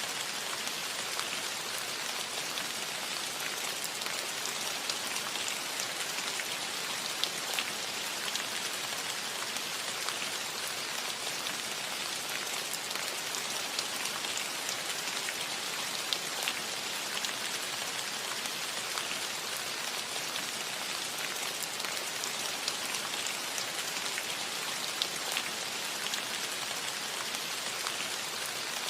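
Steady rain falling on a roof: an even hiss with scattered sharper drops ticking through it.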